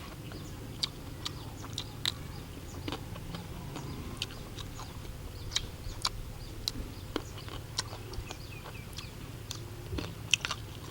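Eating noises: irregular small clicks and smacks of chewing, with no steady rhythm.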